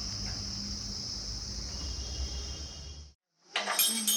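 Steady high-pitched chirring of crickets, cut off abruptly about three seconds in. A short clatter follows near the end.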